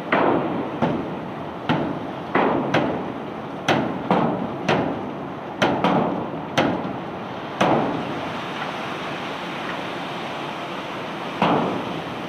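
Cobblestones being unloaded from a barge, dropping and knocking one after another: a sharp clack each time with a short rumble after. The strikes come irregularly, about one or two a second, then stop for a few seconds before one more near the end.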